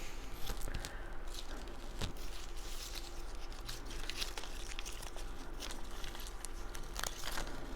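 Cardstock pieces and foam tape being handled: scattered crinkling, rustling and small tearing sounds with light taps.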